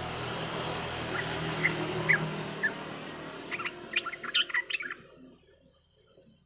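Yellow-vented bulbul (trucukan) calling in short, separate chirps, then a quick flurry of chirps about four seconds in, over a steady hiss that drops away near the fifth second. A thin, steady high tone runs from about four seconds on.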